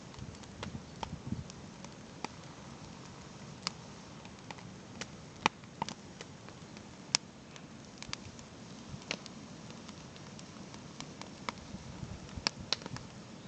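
Campfire crackling: irregular sharp pops and snaps of burning wood over a low steady hiss, with the loudest pops about five and seven seconds in.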